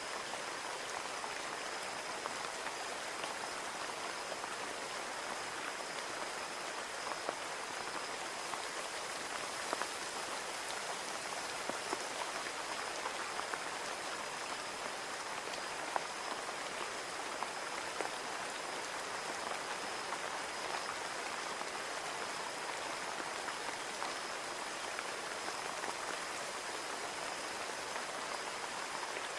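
Steady rain pattering on a window pane, with scattered individual drop taps over an even hiss of falling rain.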